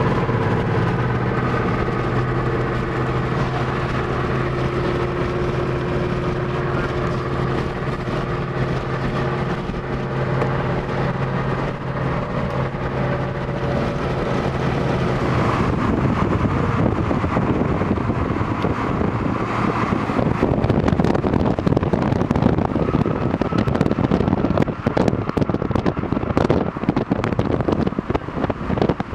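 A vehicle running with a steady engine hum, heard from inside. About halfway through the hum fades under a loud, rough rushing noise that grows more crackly and gusty toward the end, typical of wind and rain battering the car.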